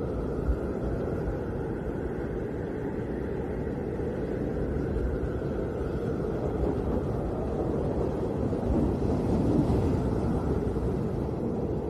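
Snowstorm wind blowing as a steady low rumble, swelling in a gust near the end.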